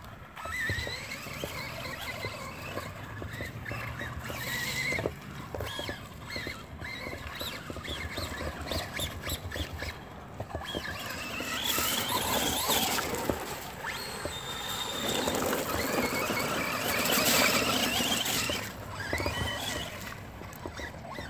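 Traxxas Rustler VXL RC trucks' brushless electric motors whining up and down in short bursts of throttle as the trucks, stuck on a thick-mud hill, spin their wheels trying to climb out.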